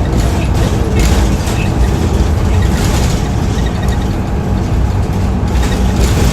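2008 Hino Blue Ribbon II city bus's turbo-diesel engine running steadily under way, a continuous low rumble mixed with road noise.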